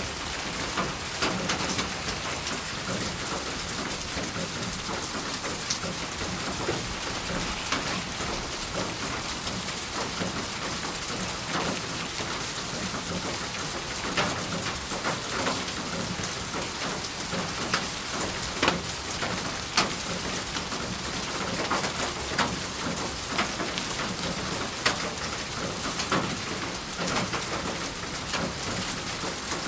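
Steady rain falling, with many individual drops striking a hard surface as irregular sharp ticks over the constant hiss.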